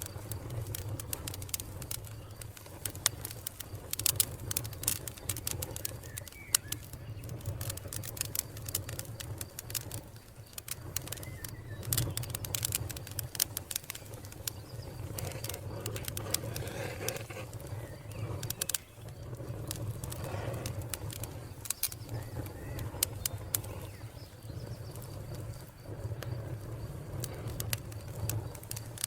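Wood fire crackling, with many sharp snaps and pops over a steady low rumble.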